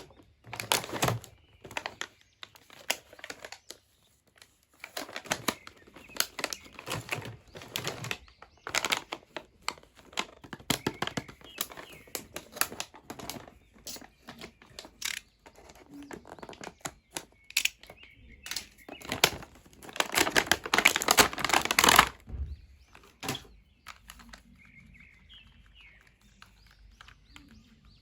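Toy packaging being handled and opened: irregular plastic crinkling, rustling and clicks, with a longer, louder crinkling and tearing stretch about three quarters of the way in. It quietens near the end.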